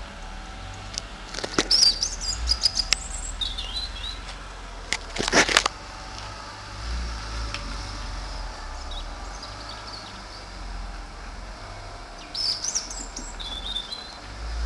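Small birds chirping in short twittering phrases, about two to four seconds in and again near the end. A burst of sharp clicks comes about two seconds in and a loud brief rustling burst about five seconds in, over a low rumble.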